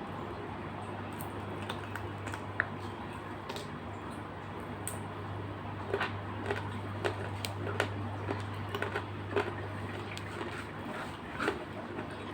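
Eating sounds: a string of small sharp clicks and crunches, thickest from about halfway in, over a steady low hum.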